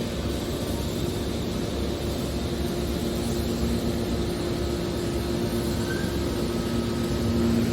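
Horizontal hydraulic scrap metal baler running, a steady machine drone with a low hum from its hydraulic power unit.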